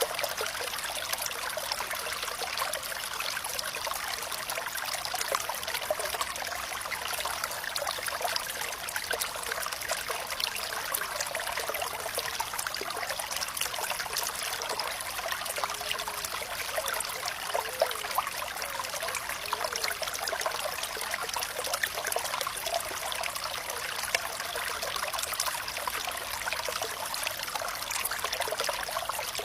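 Flowing water trickling steadily, a light splashing with almost no low rumble and a few small bubbling plinks.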